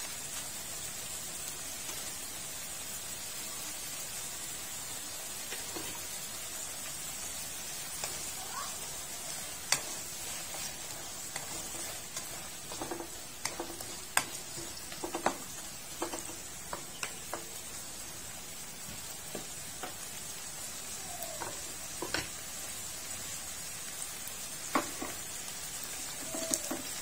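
Tomato and onion sizzling as they sauté in a nonstick wok, a steady frying hiss. From about eight seconds in, a spatula stirring the pan adds scattered clicks and scrapes.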